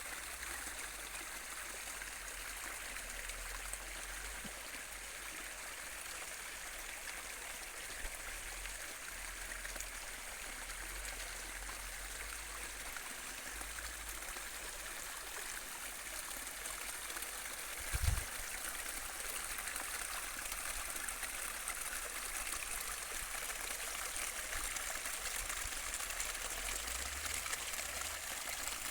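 Water running in a stream, a steady rushing and trickling, with a single brief low thump about eighteen seconds in.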